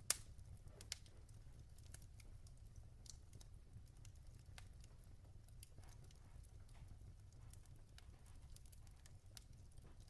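Wood fire burning in a fireplace, crackling quietly: small irregular snaps and pops from the burning logs, a sharper pop right at the start and another about a second in, over a faint low rumble.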